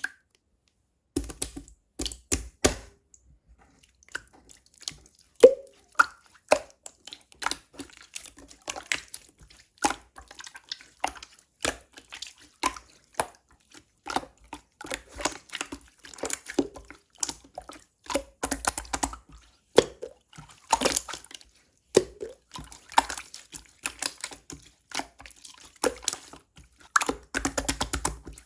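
Slime being squeezed and pressed by hand, making irregular wet clicks, squishes and pops.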